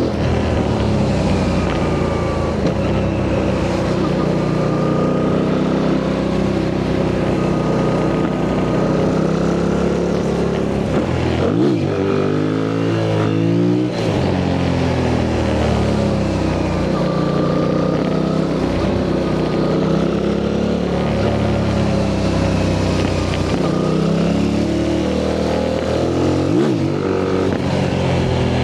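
Yamaha MT-07's parallel-twin engine, on its stock exhaust, running under load at mostly steady revs while riding. About twelve seconds in, the revs fall and climb quickly several times, and there is another brief dip and rise near the end.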